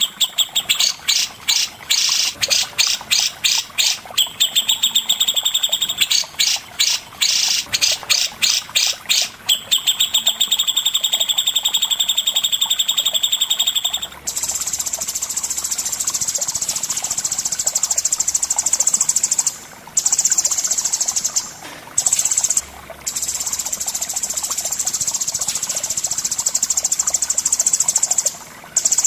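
Songbird song from a recording of cucak jenggot (grey-cheeked bulbul) and cendet (long-tailed shrike): runs of rapid, repeated high chirps, then from about halfway a dense, continuous high trill broken by a few short pauses.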